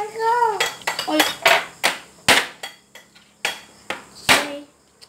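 Cutlery and plates clinking and knocking as a meal of crab and shrimp is eaten by hand, a string of sharp knocks and clicks with two louder knocks about two and four seconds in.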